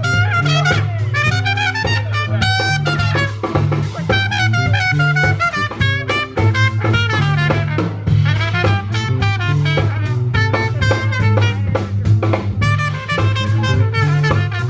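Swing-style jazz played by a band: a trumpet or brass lead over a stepping bass line and a drum kit.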